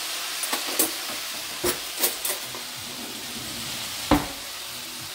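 Fajita filling frying in a pan with a steady sizzle. Several sharp knocks and clicks of kitchen utensils sound over it, the loudest about four seconds in.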